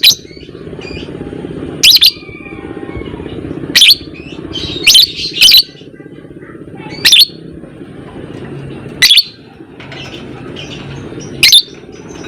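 Lovebird calling: a series of loud, sharp shrieks about every one to two seconds, some coming in quick pairs, over a steady low background.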